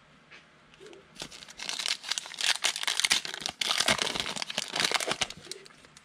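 Foil trading-card pack wrapper being torn open and crinkled: a dense crackling rustle that starts about a second in and lasts about four seconds.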